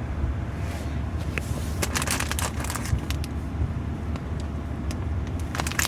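Pickup truck engine running, a steady low rumble heard from inside the cab, with scattered clicks and crackles from about two seconds in.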